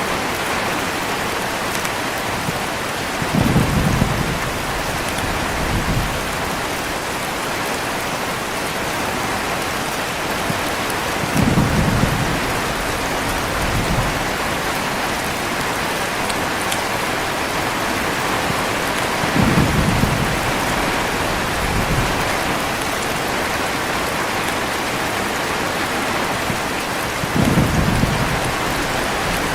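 Heavy rain falling steadily, with low rolls of thunder about every eight seconds, four in all. Each roll is followed by a fainter rumble a couple of seconds later.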